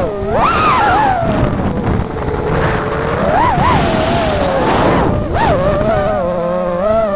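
FPV racing quadcopter's brushless motors whining, the pitch swooping up and down with the throttle as it is flown, then holding steadier near the end, over a rush of wind noise.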